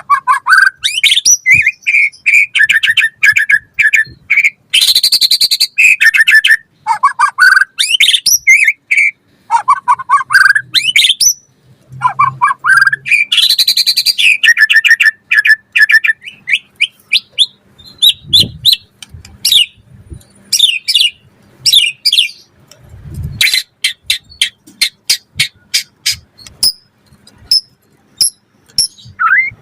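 White-rumped shama (murai batu) in full song, singing a loud, varied run of rising whistled sweeps, quick trills and harsh rasping notes, packed with mimicked phrases. In the second half the song turns to rapid strings of sharp clicking notes.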